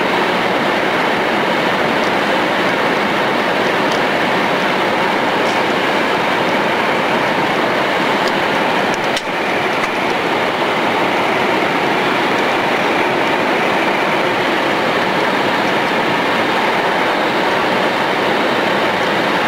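Steady running noise of a Shinkansen bullet train at speed, heard inside the car: a continuous rushing rumble of wheels on rail and air, with a brief dip about nine seconds in.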